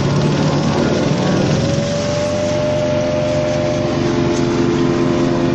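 Branch shredder running as it chews through conifer branches: a loud, steady engine note over a dense grinding noise, the pitch sagging in the first second or so and then climbing back to hold steady.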